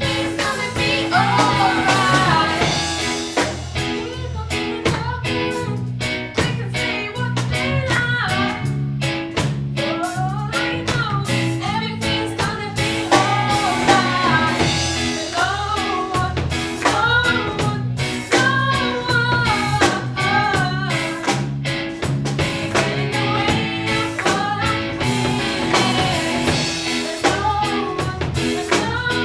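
A live band performing a song: singing over guitar and drum kit, with a steady beat.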